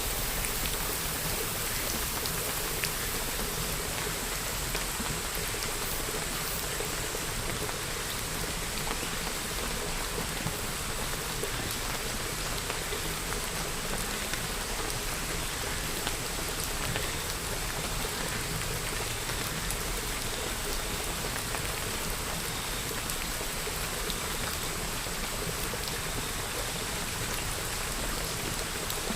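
Steady rainfall: an even, unbroken hiss of rain with faint individual drops ticking through it.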